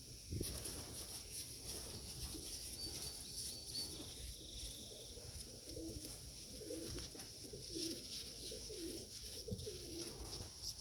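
Domestic pigeons in a loft cooing softly, with short low coos repeating from about four seconds in.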